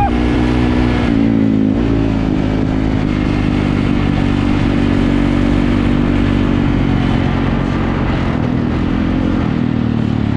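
Dirt bike engine running at a fairly steady speed, its pitch dipping briefly about one and a half seconds in.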